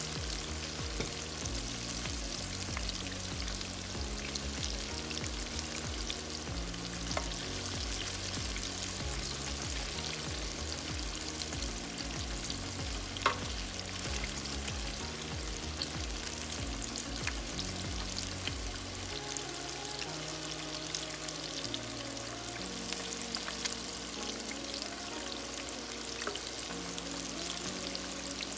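Breaded chicken tenders deep-frying in hot oil, with a steady crackling sizzle. A single sharp click comes about halfway through.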